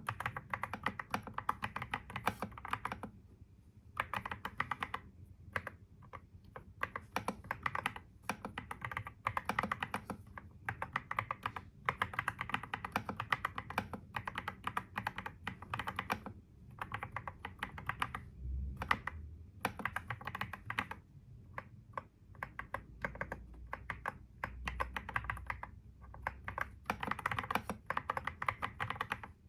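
Typing on a computer keyboard: quick runs of keystrokes lasting a few seconds each, broken by short pauses.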